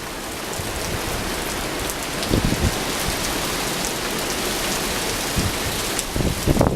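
Heavy rain falling steadily and spattering on surfaces, with fine scattered drip ticks. Brief low buffets of wind hit the microphone about two and a half seconds in and again near the end.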